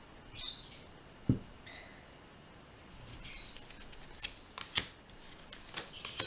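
A small bird chirping in a few short high calls, with a few sharp clicks in between.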